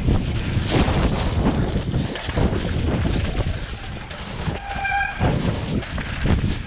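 Mountain bike rattling and rumbling over rough, wet trail, with knocks throughout and a brief high squeal about five seconds in.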